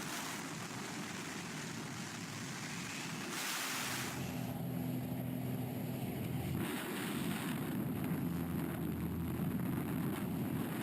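Wind rushing over a camera microphone, with a low engine drone in the middle of the stretch.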